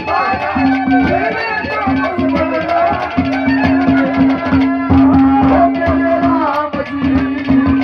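Live Haryanvi ragni folk accompaniment with no singing: a hand drum beating quickly under a melody line of sliding notes and a held note that cuts in and out.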